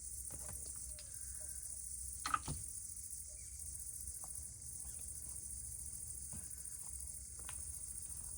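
Insects chirring in a steady high-pitched drone, with scattered faint clicks and one sharper snap a little over two seconds in.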